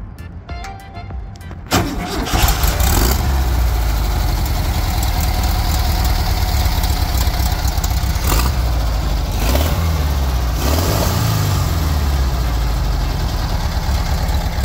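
Volkswagen Type 2's air-cooled flat-four engine starting with a sudden burst a little under two seconds in, then running at a steady idle, blipped up briefly a couple of times in the middle.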